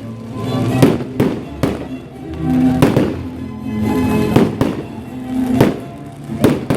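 Fireworks bursting: a string of sharp bangs, roughly one every second, some in quick pairs, with music playing underneath.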